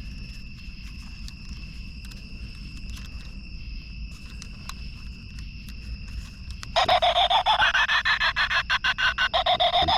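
Night insects, likely crickets, chirring steadily on two high held tones. About seven seconds in, a much louder, rapidly pulsing pitched sound starts abruptly and keeps going.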